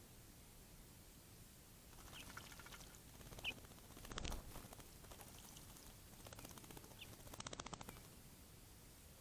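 Faint sounds of small birds at a bird bath: a few short, high chirps and three brief bursts of rapid fluttering splashes as they bathe.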